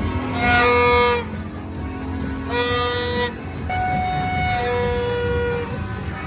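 Horns tooting in a series of long, steady notes of about a second each, some a little higher in pitch than others.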